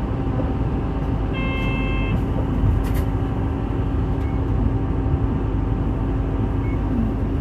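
City bus engine running steadily, heard from inside the bus, with a low constant hum. A short electronic beep sounds about a second and a half in.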